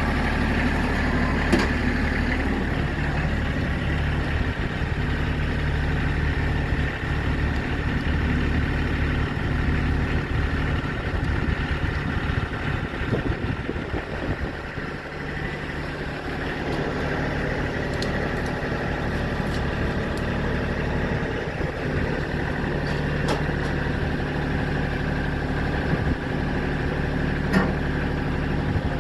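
Tractor engine running steadily at a low idle, its note wavering briefly about halfway through before settling again.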